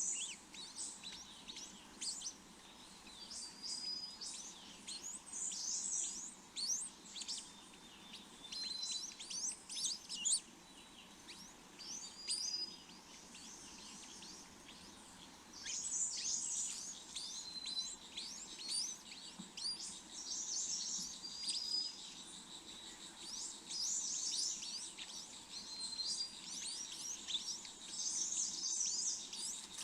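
Small birds chirping and calling: bursts of rapid high chirps, with a short whistled note repeating every couple of seconds.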